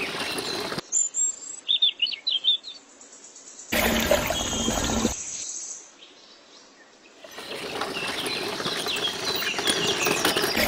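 Small birds chirping in the background, with a louder stretch of noise lasting about a second and a half starting near four seconds in.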